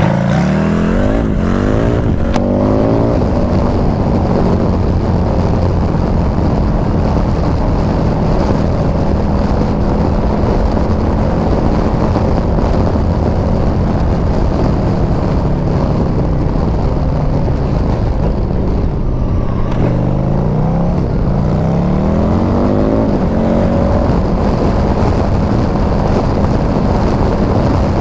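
Motorcycle engine accelerating through the gears over the first few seconds, then running steadily at cruising speed; about 19 seconds in it eases off and then accelerates again. Wind rushes over the helmet microphone throughout.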